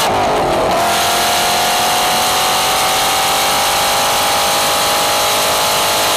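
Ford GT's supercharged 5.4-litre V8 pulling hard at high revs. About half a second in, the note drops with an upshift, then climbs slowly and steadily as the car accelerates through the next gear, over a steady rush of wind.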